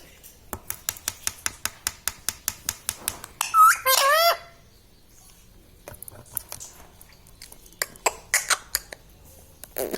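A run of sharp clicks, about five a second, then an Indian ringneck parrot gives one short call that swoops down in pitch. After the call come a few scattered clicks.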